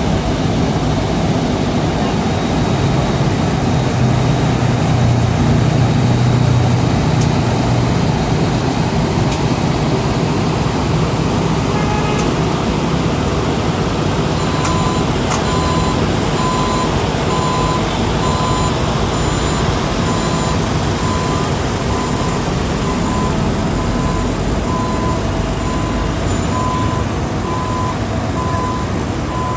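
Diesel engine of heavy road-works machinery running steadily during asphalt repair work. About halfway through, a reversing alarm starts beeping at an even pace.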